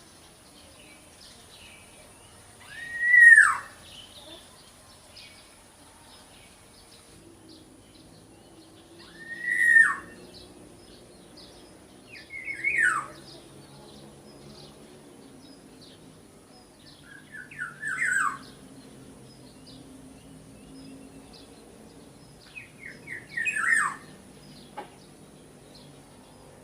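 Black-naped oriole calling: five separate calls spaced several seconds apart, some a single arched nasal note that bends up and then falls, others led in by a quick run of short stuttered notes. Faint twittering of other small birds underneath.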